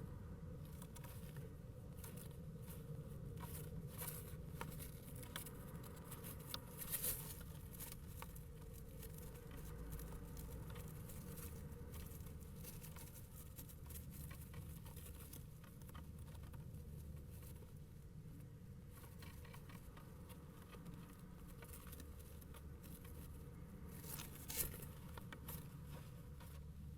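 Faint patter of small scattered taps and scratches in a kestrel nest box, over a low steady hum, with two louder clicks, about seven seconds in and near the end.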